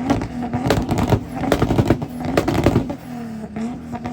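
A car engine revving up and down several times, with many sharp cracks or pops over it.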